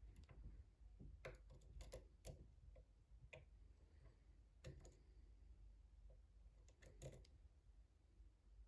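Faint, irregular metallic clicks and ticks of a deep hook lock pick working the pins inside a pin-tumbler lock, a small cluster about a second in and a few single clicks after.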